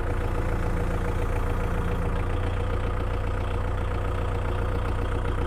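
Kubota MU4501 tractor's 2434 cc four-cylinder diesel engine running steadily with a low rumble.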